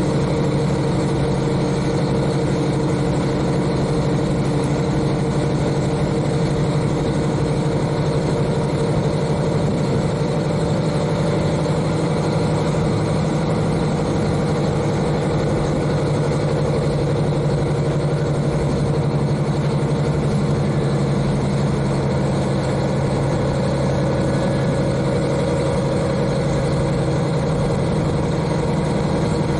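KiHa 40 diesel railcar's N-DMF13HZI diesel engine running at a steady, unchanging note, heard from directly above the engine. The note is mixed with the running noise of the car.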